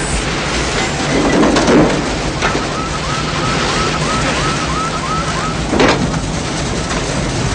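Heavy storm wind and rumble of a tornado, with an electronic alarm chirping about two to three times a second from about two and a half seconds in. A couple of sharp hits come through the noise.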